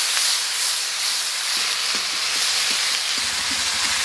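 Sliced onions, tomatoes and ginger-garlic paste sizzling steadily in hot mustard oil in a steel kadai. A spatula stirs and scrapes them around the pan.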